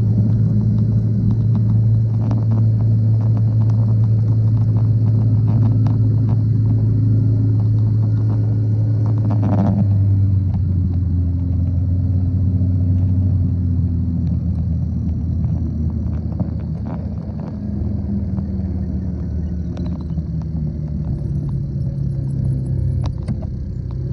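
Motorcycle engine running steadily under way with a low, even rumble. About ten seconds in its pitch drops and keeps easing lower as the bike slows.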